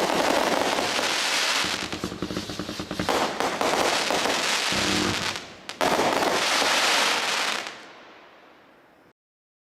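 World Destroyer 192-shot firework cake firing rapid volleys of shots with crackling. There is a short lull about five seconds in, then one more loud burst, after which the sound fades and cuts off about nine seconds in.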